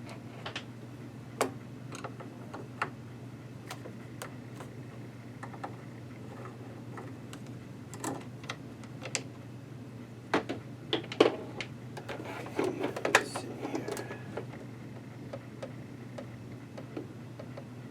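Scattered light clicks and knocks of a screwdriver and small screws being handled while the bottom screws are taken out of a sewing machine. The clicks are busiest about ten to fourteen seconds in, over a steady low hum.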